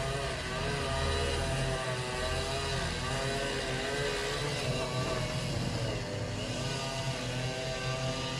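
Engine of heavy construction machinery running under varying load, its pitch rising and falling every second or two over a steady low rumble.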